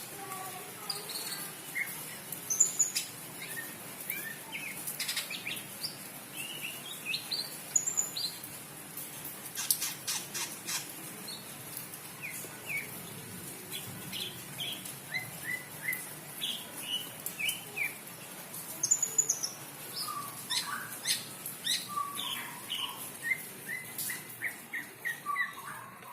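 A cucak ijo (green leafbird) in breeding condition singing: a varied run of short chirps, whistles and quick trills, over a steady high hiss.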